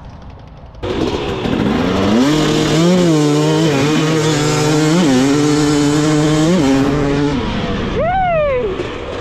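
Dirt bike engine opening up about a second in and pulling hard, its pitch climbing and then dropping back at each upshift. Near the end comes one quick rev that rises and falls sharply.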